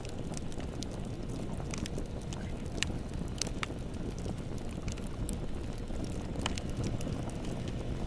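Bonfire burning: a steady low rush of flames with sharp crackles and pops at irregular moments.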